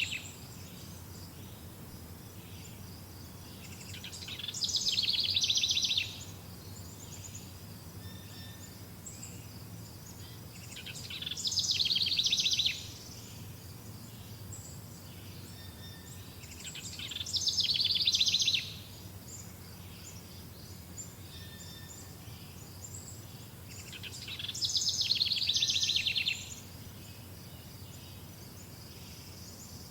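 A songbird sings a rapid, trilled song of about two seconds that swells and then stops abruptly, four times at intervals of roughly six to seven seconds. Beneath it runs a steady, faint, high insect chirring.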